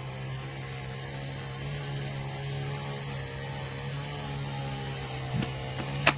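Electric chainsaw motor running at a steady pitch, with a sharp click about six seconds in.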